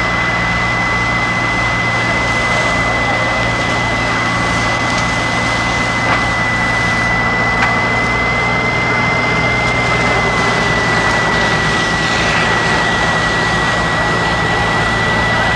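Steady engine running at a fire scene, with a constant high-pitched whine held throughout over a low hum and a dense rushing noise.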